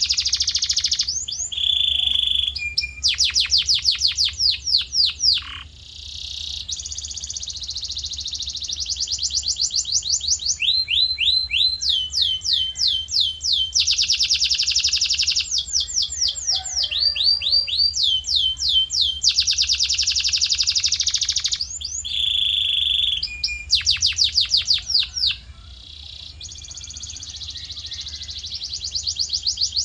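Male canary singing a long rolling song of rapid trills, each phrase a fast run of repeated notes, switching to a new phrase every second or two.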